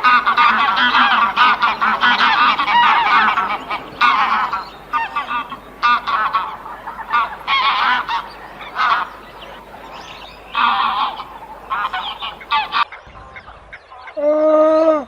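A flock of domestic waterfowl calling, many honking calls overlapping, stopping abruptly about thirteen seconds in. Near the end comes a single longer animal call, about a second long and falling slightly in pitch.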